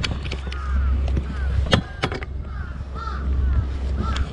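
Birds calling over and over in short arched cries, over a steady low rumble, with a few sharp clicks a little under two seconds in.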